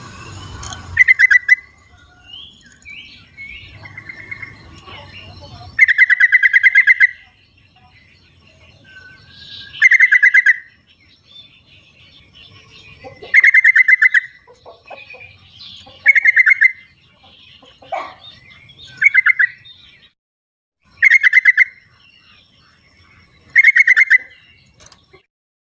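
Yellow-vented bulbul (trucukan) calling in the wild: about eight short, rapid chattering phrases repeated every two to four seconds, with fainter bird calls in between.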